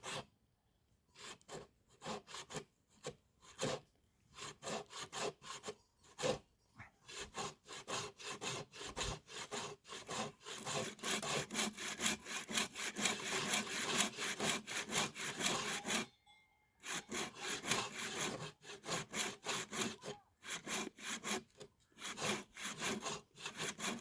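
Hand saw cutting through firewood, in steady back-and-forth strokes about two to three a second, stopping briefly a few times.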